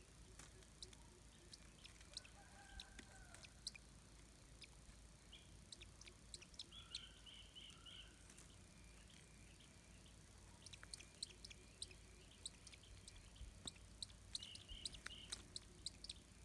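Faint bird calls: a few short chirps and, twice, a quick run of about five high notes, over scattered soft clicks.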